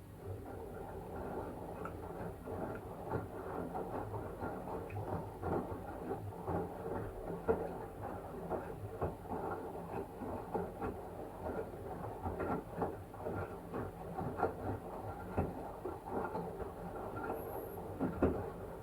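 LG washing machine drum turning a wet blanket through the wash, with water sloshing and many small irregular knocks and clicks; the tumbling stops near the end.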